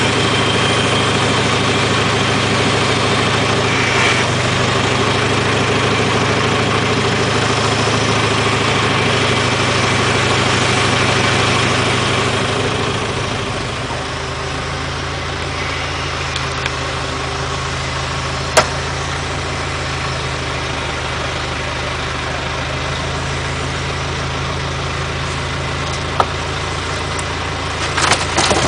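IHC tractor engine running steadily, then dropping to a lower, quieter idle about halfway through. A couple of single sharp knocks come over the idle, and a clatter starts near the end.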